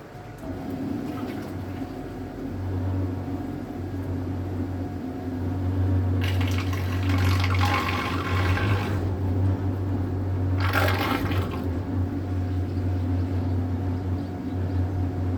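Electric boat motor humming steadily, picking up about half a second in and running stronger from about 2.5 s. Water rushes past the hull in two loud bursts around the middle.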